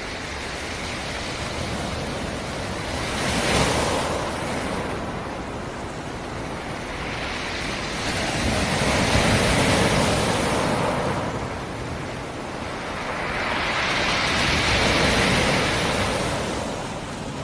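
Black Sea surf: three waves break and wash up the shore in turn, one about every five seconds, each swelling into a rushing hiss and then falling back.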